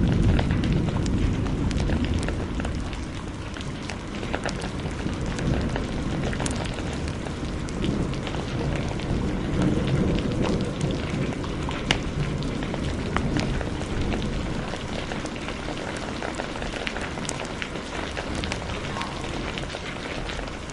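Steady heavy rain with a wood fire crackling in sharp pops throughout. A low rumble of thunder dies away over the first few seconds.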